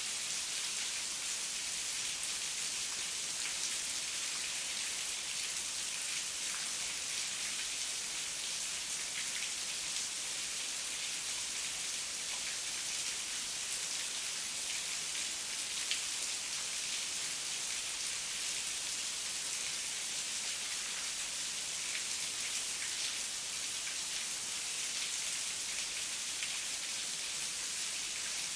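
Steady heavy rain falling, a dense even hiss with many fine drop ticks, one drop a little sharper about halfway through.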